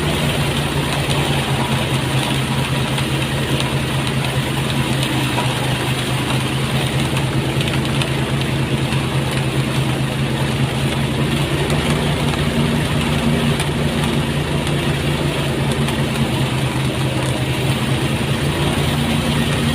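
Engine-driven rice threshing machine running steadily at a constant pitch, with a dense rushing noise over the engine hum.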